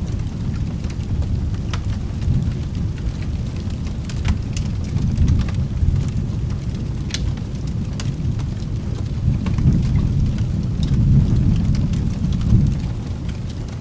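Rolling thunder rumbling low under steady rain, swelling about a third of the way in and again near the end, with scattered sharp clicks throughout.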